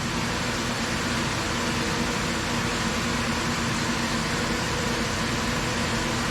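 CNC vertical machining center running with a steady hiss and a faint low hum, without the high spindle whine.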